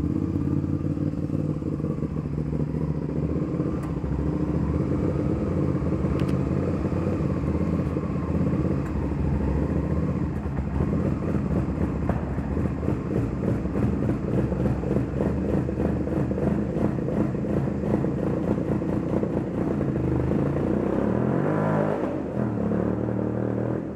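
2002 Suzuki SV650's V-twin engine running steadily, its pitch dipping and then rising again briefly near the end.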